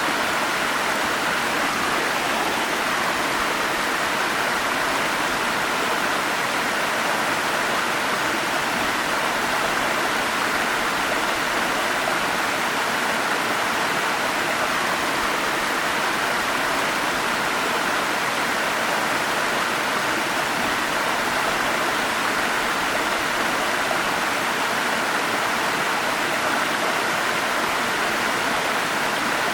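Forest stream running steadily: a constant, even rush of flowing water with no breaks or changes.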